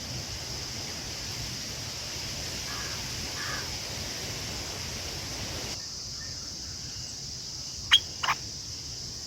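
Bird calls: faint short calls about three seconds in, then two sharp, loud calls close together near the end, over a steady high-pitched hiss that stops abruptly a little past halfway.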